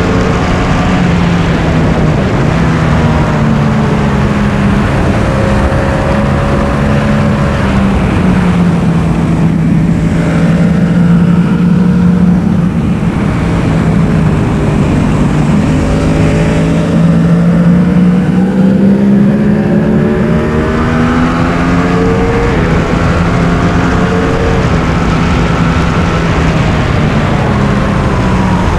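Yamaha R1's inline-four engine at track speed, its note dropping and climbing again and again as it is revved through the gears, over continuous wind and road rush.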